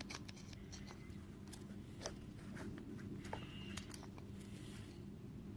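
Faint scattered light clicks and taps of a washing machine door interlock and its test wires being handled, over a low steady hum.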